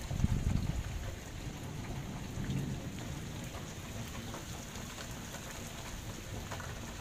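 Heavy rain pouring steadily, with low rumbles that are loudest in the first second and come again about two and a half seconds in.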